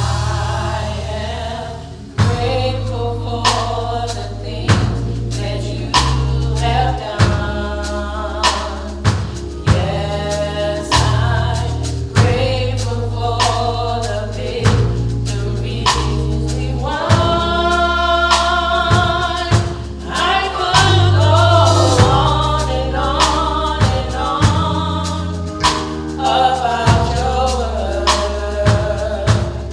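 Gospel choir singing with a band behind it: a drum kit keeping a steady beat under held bass notes.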